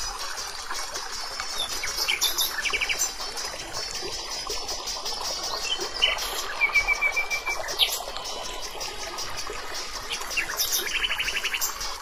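Small birds chirping, with a couple of quick trills of rapidly repeated high notes.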